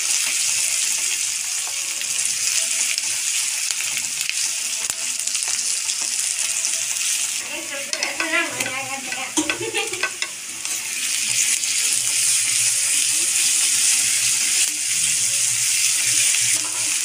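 Sliced onions and green chillies sizzling in hot oil in a wok, stirred with a wooden spatula. The sizzle thins for a few seconds about halfway through, then picks up again.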